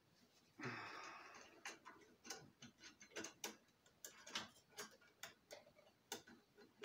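Faint, irregular light clicks and taps of small metal parts and tools being handled at a workbench during compressor reassembly, after a brief rustle just under a second in.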